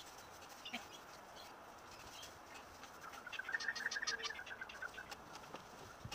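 A bird calling in a quick chattering run of chirps for about two seconds, starting about three seconds in, over faint outdoor background noise.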